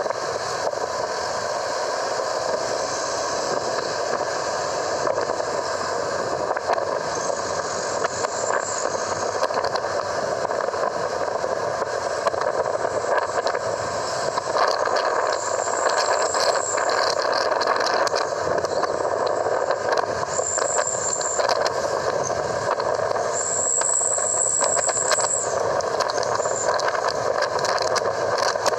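A truck running steadily, heard as a continuous engine and road noise. Several short high-pitched sounds come over it, the longest and loudest near the end.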